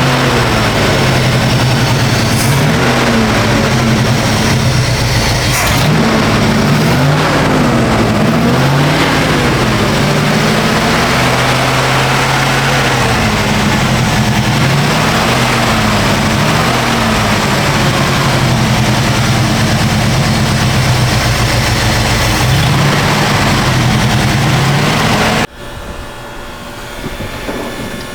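Chevrolet C10's 350 small-block V8 running, revved up and down several times, then held steadier, until it cuts off suddenly near the end.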